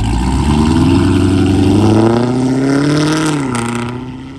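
Car engine accelerating, its pitch rising steadily for about three seconds, then easing off and fading near the end.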